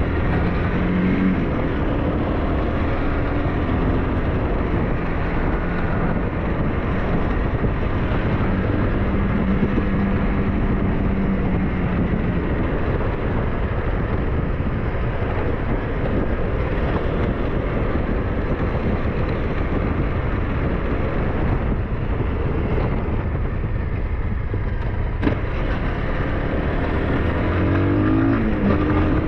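SYM NH T 200 scooter engine running under way, with a steady rush of wind and road noise over it. The engine note shifts with the throttle and rises near the end.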